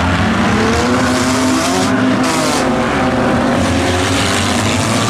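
A pack of figure-eight race cars' engines running together at full throttle, several engine notes overlapping and rising and falling as the field accelerates.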